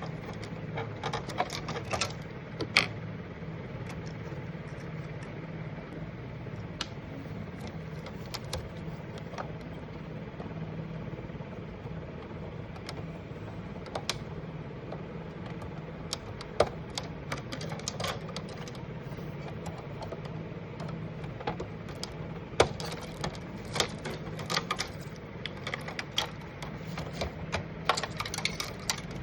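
Small clicks and taps of plastic and metal parts being handled while an inkjet printer is worked on, in bursts with pauses between, over a steady low hum.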